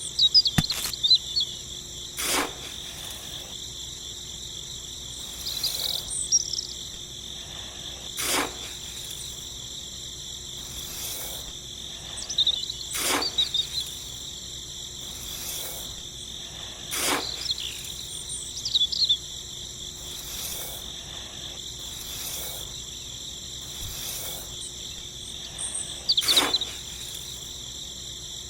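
Steady high-pitched drone of insects, with brief chirps. About five sharp knocks or clicks stand out, several seconds apart.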